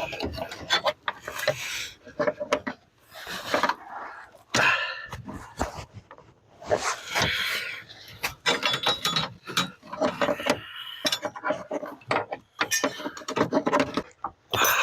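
Hands and a small screwdriver working behind a car's dashboard to free the headlight switch and dimmer: scattered clicks and knocks with irregular rubbing and scraping.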